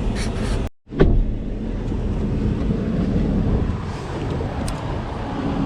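Steady truck engine and road rumble. It drops out completely for a moment just under a second in, and a short sharp knock follows as it comes back.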